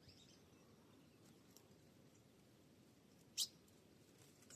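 Ultramarine grosbeak (azulão) giving one short, sharp high call note about three and a half seconds in, over near silence, with a couple of much fainter high chirps earlier.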